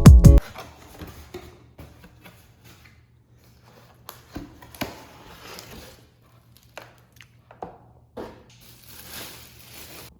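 Scattered light clicks, taps and rustling, as of small objects being handled. Intro music cuts off just after the start.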